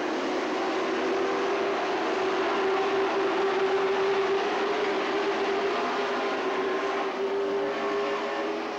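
A field of stock pickup race trucks running at speed around a paved oval, their engines a steady, massed drone that grows louder through the middle and eases off near the end as the pack goes by.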